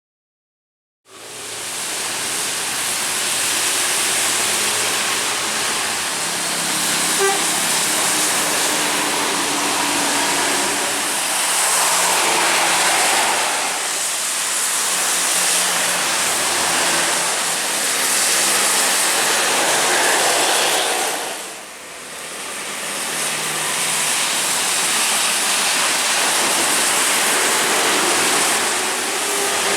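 Intercity buses driving fast on a rain-wet road: a steady hiss of tyre spray over engine drone. It starts about a second in and dips briefly about two-thirds of the way through.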